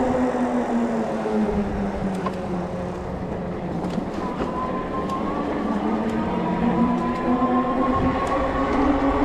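E-bike hub motor whining over the rumble of knobby fat tyres on pavement. The whine falls in pitch over the first few seconds as the bike slows, then rises steadily as the bike picks up speed again.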